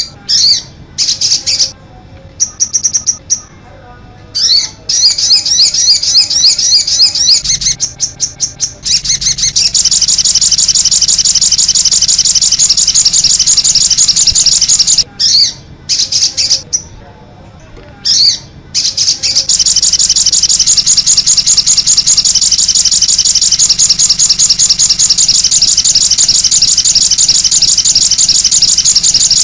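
Sogon bird (cit anten) calling: rapid, high-pitched chirps that run into long unbroken trills, broken by a few short pauses.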